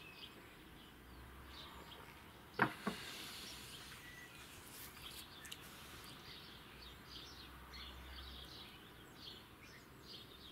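Faint garden birdsong: scattered short high chirps from small birds, with two quick soft knocks about two and a half seconds in.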